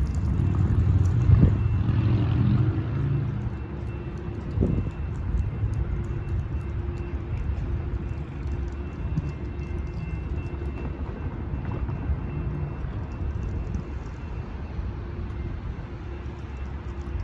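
Altamont Corridor Express commuter train, pushed by a Siemens SC-44 Charger diesel-electric locomotive, rumbling through a grade crossing. The rumble is loudest in the first three seconds, then settles into a steadier, lower rumble.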